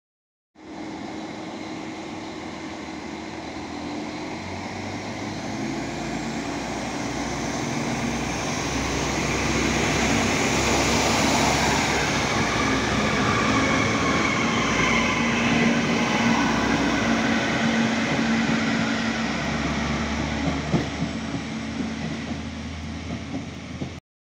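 PESA Link (SA139) two-car diesel multiple unit running past along the platform, its engines and wheels on the rails growing louder as it nears. The sound is loudest as it passes close by, then eases off as it moves away, and ends abruptly near the end.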